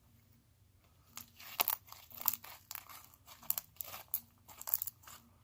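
Homemade slime, runny from too much water, being squished and stretched by hand, giving irregular sticky clicks and crackles that start about a second in.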